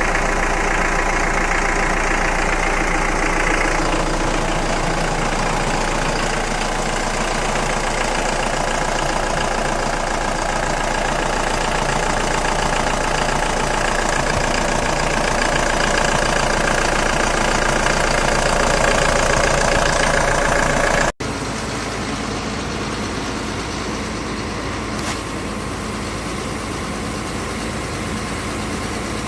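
Steady vehicle engine running at idle. About 21 seconds in it cuts off abruptly and switches to a slightly quieter steady engine sound.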